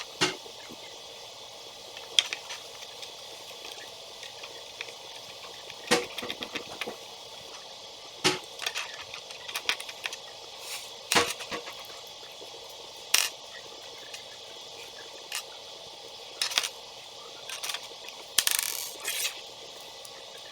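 Small toy building pieces being handled and fitted together: scattered sharp clicks and short rattles every second or two, with a longer rattle near the end.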